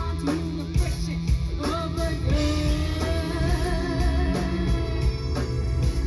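Live rock band playing: a sung vocal line over electric guitar, bass and a steady drum beat.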